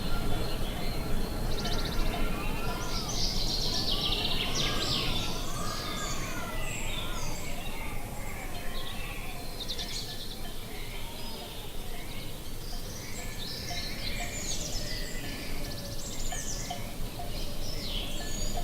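Several birds chirping and singing over a steady background hiss, with a few rising-and-falling whistled notes a few seconds in.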